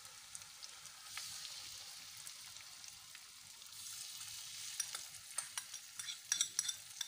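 Beaten egg sizzling in hot oil and spice paste in an aluminium wok: a steady frying hiss, with scattered crackles and clicks growing more frequent over the last two seconds.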